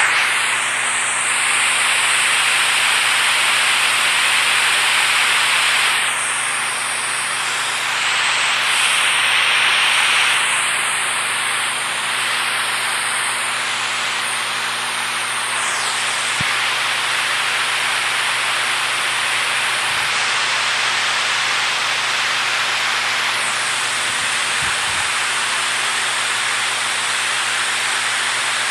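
Running or falling water making a dense, steady hiss, with slight swells in level.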